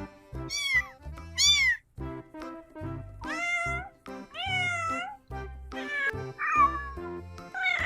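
Domestic cats meowing over and over, about six separate meows, some short and some drawn out, with background music playing underneath.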